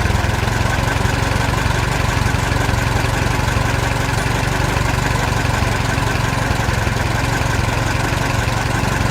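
An engine running steadily at idle, a loud, even rumble with a low hum that cuts in suddenly.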